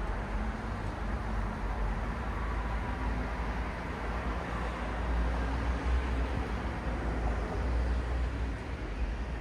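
Steady city traffic noise: a continuous low rumble of passing vehicles and tyres on the road, slightly swelling in the middle.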